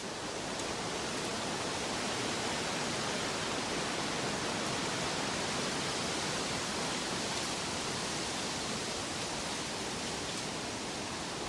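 Steady, even rushing of water, a smooth hiss with no distinct drops or splashes, settling to full level in the first second or two.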